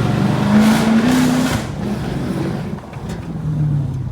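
2012 Dodge Charger R/T's 5.7-litre HEMI V8 making a quick full-throttle pull through a straight-piped exhaust (resonator and mid-muffler deleted, catalytic converters kept): the engine note climbs, drops away about two seconds in, then rises briefly again near the end.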